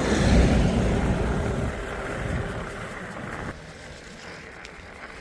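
Wind buffeting the microphone: a loud, deep rumble that eases off, then drops suddenly about three and a half seconds in.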